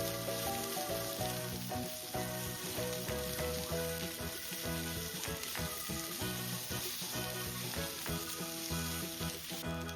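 Pork and onions sizzling in oil in a frying pan, with occasional clicks of stirring, over background music with a melody.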